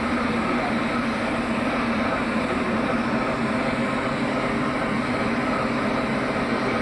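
A train running, a steady, even rumble with a low hum and no clear beat.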